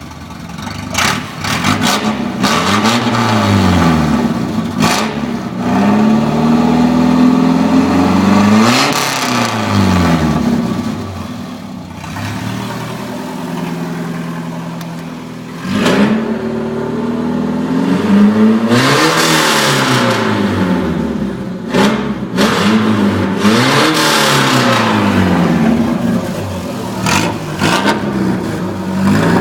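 Volvo 340 GL engine with an open, un-silenced exhaust, being revved over and over. The pitch climbs and falls back repeatedly, some revs are held high for a couple of seconds, and a few sharp cracks come between them.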